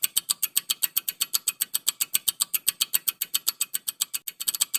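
Countdown-timer ticking sound effect: rapid, even clock-like ticks, about nine a second, marking the time left to answer a quiz question.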